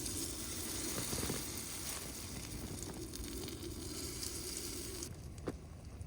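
Bannock dough frying in a pan, sizzling steadily. The sizzle drops away sharply about five seconds in, and a single click follows.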